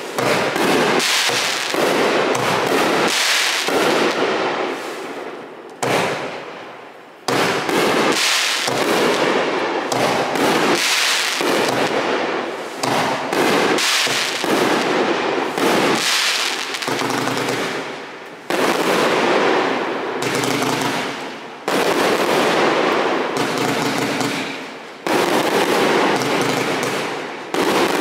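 A 168-shot professional fireworks cake firing in rapid succession: a near-continuous barrage of sharp shots and aerial bursts. It pauses briefly about six seconds in and has a few shorter lulls later on.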